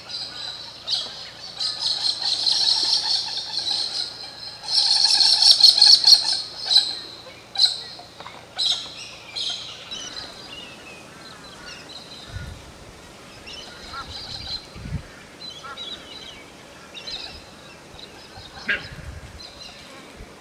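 Birds calling: two long, loud bouts of high calls in the first six seconds, then shorter calls scattered through the rest.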